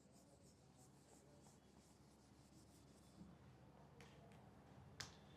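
Faint scratching of a pen writing, with a couple of light taps about four and five seconds in.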